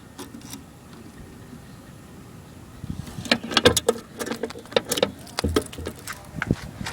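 Keys rattling and sharp metallic clicks as a key works the locking fuel cap on a Toyota Kijang, with a couple of dull thumps near the end.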